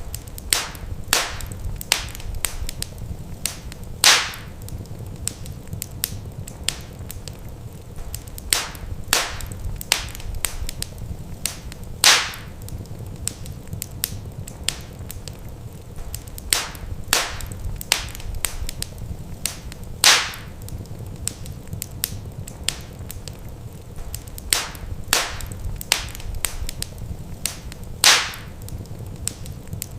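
Wood fire crackling in a fireplace: sharp pops and snaps over a low, steady rumble. A louder pop comes about every eight seconds, in a pattern that repeats.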